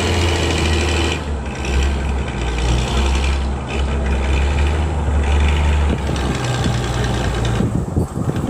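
A heavy vehicle engine running steadily with a deep low hum. The hum stops near the end and gives way to a few sharp clicks and knocks.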